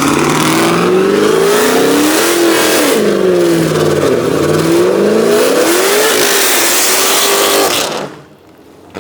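A car engine revving hard and close, its pitch climbing and dropping several times over a loud exhaust rush, then cutting off sharply about eight seconds in.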